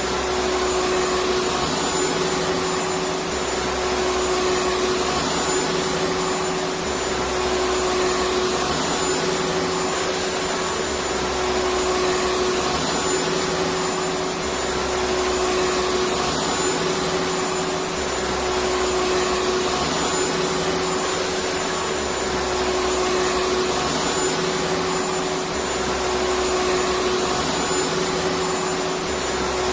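Vacuum cleaner running steadily: an even, unbroken rushing hiss with a steady motor whine.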